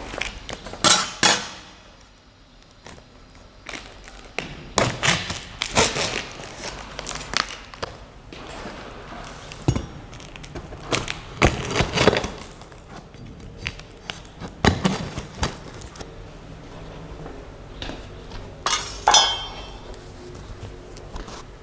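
Unboxing sounds: irregular knocks, clunks and rustling as the box is opened and packaging and parts are handled, with a louder crinkly rustle of packing material near the end.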